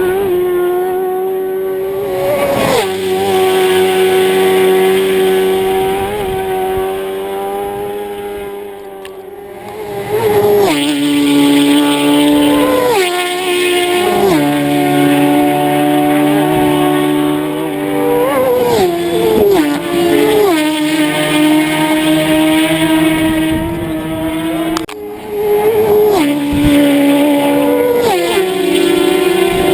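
Racing motorcycles at full throttle, passing one after another. Each engine note holds high and steady as a bike approaches, then drops sharply as it goes by, about six times.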